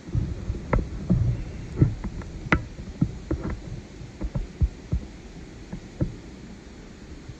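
A run of irregular knocks and low thumps, starting suddenly, several a second at first and thinning out toward the end.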